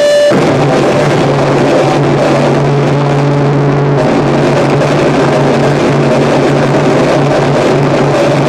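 Harsh noise music: a loud, dense wall of distorted noise over a steady low droning hum, with a brief drop-out just at the start.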